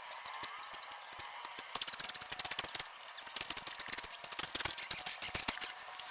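Rapid, irregular scratching strokes in two bursts, the first starting a little under two seconds in and the second after a short pause near the middle.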